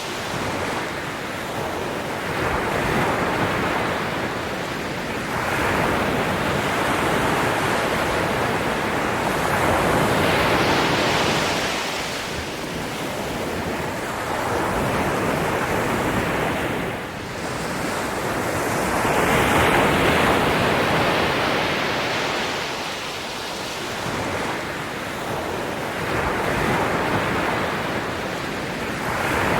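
Sea waves breaking and washing up on a shore, the surf swelling and easing every few seconds.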